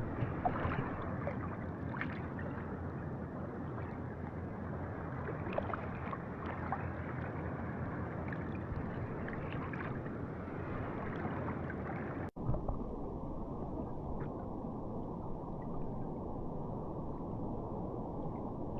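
Muffled rushing water heard through a camera in the sea while snorkeling, with faint scattered clicks and crackles. About twelve seconds in it cuts off for an instant and comes back duller.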